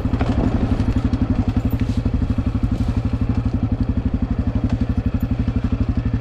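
Dirt bike engine idling with a steady, even pulse, the pitch holding level with no revving.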